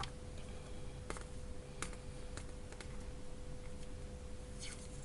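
Faint, scattered clicks and taps of small tools and wires being handled on a workbench during battery-pack soldering work, about half a dozen over the few seconds, over a steady faint hum.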